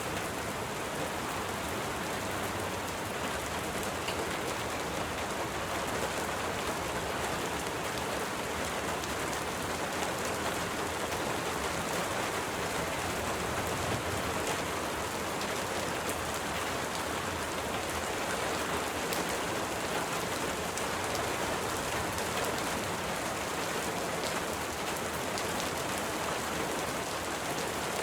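Steady rain falling, with scattered drops ticking through an even hiss.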